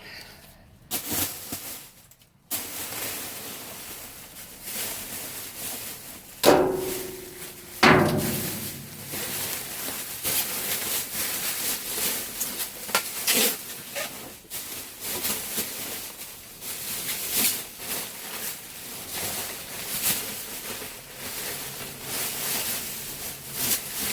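Rummaging through a dumpster: steady rustling and clattering of packaging and items being handled, with many small clicks. Two loud clanks with a brief ring come about a second and a half apart, a little after six seconds in.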